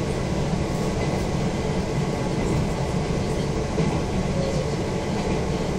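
Izu Kyuko 2100 series electric train running steadily at speed, a continuous low rumble of wheels and running gear heard from inside the passenger car.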